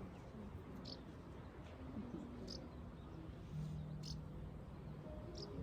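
Faint outdoor ambience with a few short, high chirps from a small bird, about one every second and a half, and a low steady hum starting a little past halfway.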